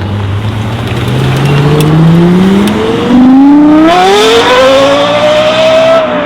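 Lexus LFA's 4.8-litre naturally aspirated V10 engine revving, its note climbing steadily in pitch for about six seconds and growing louder halfway through, then easing slightly near the end.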